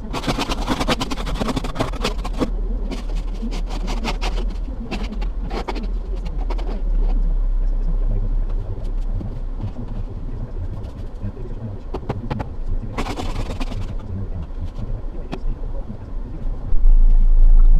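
Car driving: a steady low rumble of engine and road noise inside the cabin, with a flurry of sharp ticks and clicks at the start and a brief hissing rush about two-thirds of the way through.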